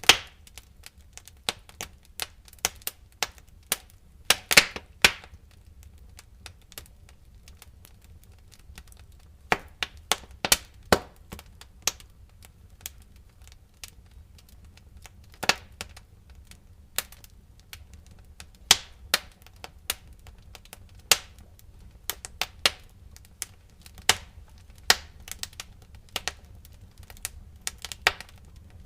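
Wood fire in a fireplace crackling, with irregular sharp pops and snaps over a low steady rumble; a cluster of loud pops comes about four to five seconds in.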